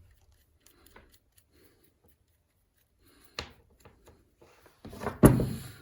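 Handling of the reassembled starter motor: a few faint clicks and a sharp click, then a louder clatter and knock near the end as metal parts are moved and set down.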